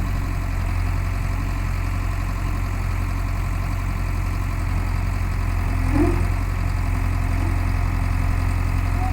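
Heavy diesel engine idling steadily with a deep, even hum, and a brief short sound rising over it about six seconds in.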